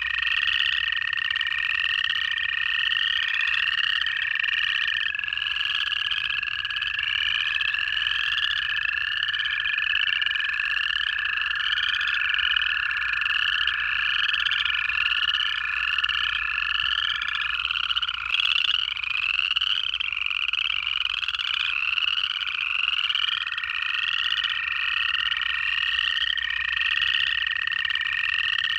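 Dense chorus of upland chorus frogs giving their ascending trill calls, overlapping and repeating about once a second. Under it are long, even trills of American toads that run for many seconds each and overlap one another.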